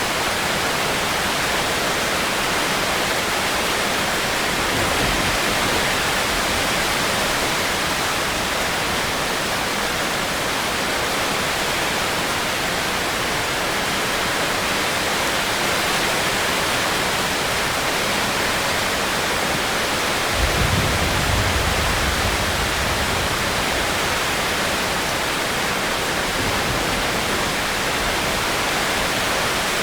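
Steady heavy rain, an even hiss. About two-thirds of the way through, a low rumble rises under it for a few seconds.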